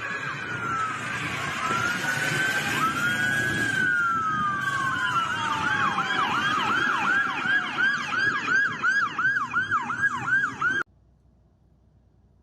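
Emergency vehicle siren sounding over road noise: a slow wail rising and falling for the first several seconds, then switching to a fast yelp of about three sweeps a second. It cuts off suddenly near the end.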